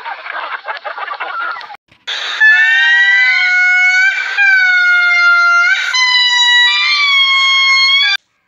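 Hens clucking for about two seconds, then a short noisy burst and four loud, long, high calls, each held steady for one to two seconds with brief breaks between them.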